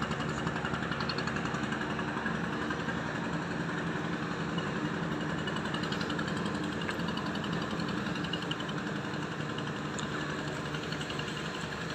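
Engine running steadily with a fast, even chugging.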